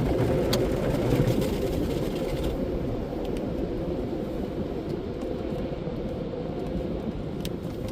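Steady low rumble of a car driving slowly out of a tunnel car wash, heard from inside the cabin. A higher hiss from the wash drops away about two and a half seconds in.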